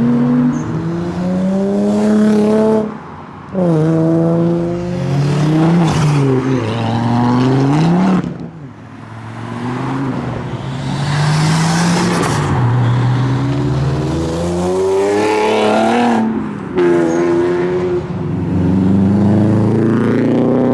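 Modified Japanese tuner cars accelerating away one after another, engines revving up in pitch and dropping sharply at each gear change, several times over. A rushing hiss comes around the middle.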